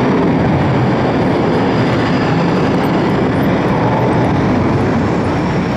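Propeller airplane engine running steadily, a loud even drone with no change in pitch.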